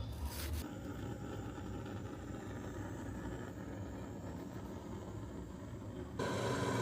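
Steady rushing wind noise that jumps abruptly to a louder rush about six seconds in.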